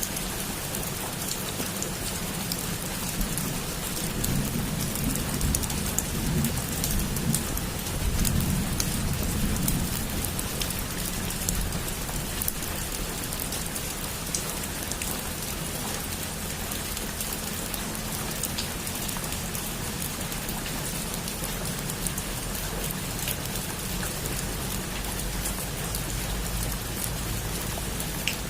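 Heavy rain falling steadily on a roof: an even hiss flecked with countless small drop ticks. A low rumble swells between about four and ten seconds in.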